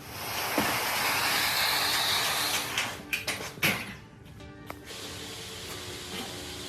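A loud hissing noise for about three seconds, then a few sharp clicks, over background music.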